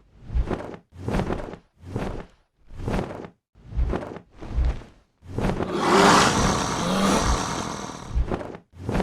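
Heavy whooshing beats, about one every 0.8 seconds, each with a low thud, like big wings flapping. About five seconds in a rough roar cuts across them and lasts about three seconds, then the beats resume.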